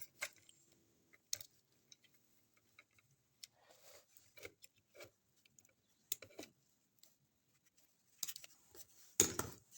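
Faint, scattered clicks and rustles of small plastic parts being handled as the old 9-volt battery is taken out of an opened digital multimeter.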